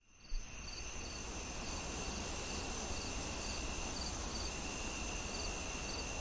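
Night insect chorus of crickets: steady high trilling with short paired chirps repeating about twice a second, over a soft even hiss. It fades in right at the start.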